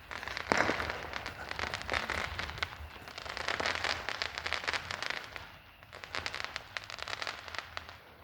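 Fireworks crackling at a distance: a dense run of small sharp pops, with a louder crack about half a second in, thinning out after about five seconds.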